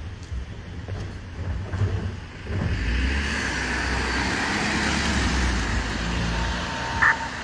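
A motor vehicle driving past close by: engine rumble and tyre noise swell from about two and a half seconds in and ease off, followed near the end by a short high beep.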